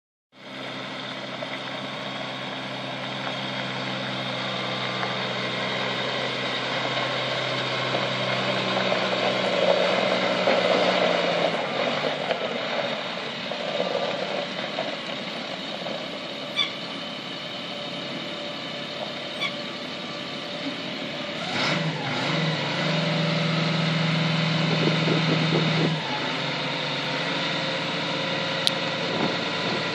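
The engine of a 2000 Chevrolet C7500 dump truck running, getting louder around ten seconds in, with a sharp knock a little after twenty seconds, and then a louder, steady note for about four seconds.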